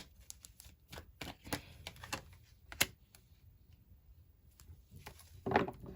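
Tarot cards being shuffled and handled: a run of light, irregular clicks and snaps, with one sharper snap about three seconds in.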